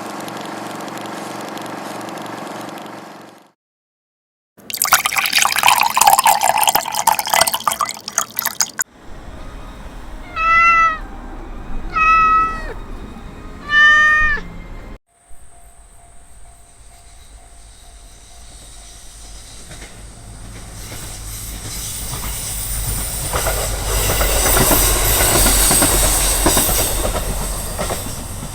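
A train approaching and passing, its rumble swelling to a peak with a thin steady high squeal and then easing off. Earlier there are separate short pieces: a steady tone, a loud noisy stretch, and three short rising-and-falling calls.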